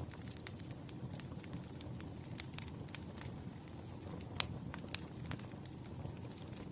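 Wood fire crackling: irregular sharp pops and snaps over a steady low rumble of the burning, one pop a little over halfway through standing out louder than the rest.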